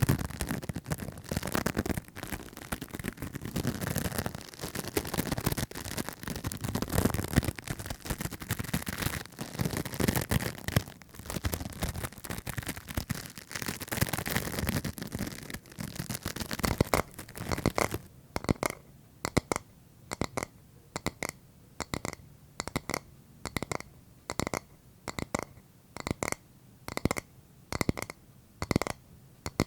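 Close-miked ASMR scratching and scraping on an object. About two-thirds of the way through it changes to a regular series of light taps, roughly one and a half a second, each with a brief ring.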